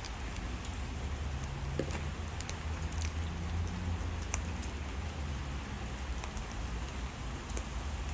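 Steady rain, with scattered sharp drips and ticks over a constant low hum.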